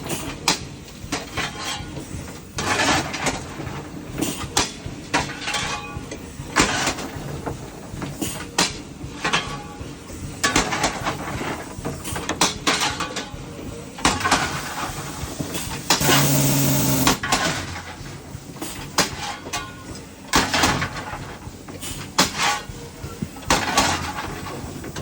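Irregular clattering and knocking of a railway carriage, with one louder stretch of about a second some 16 s in that holds a low steady tone and hiss.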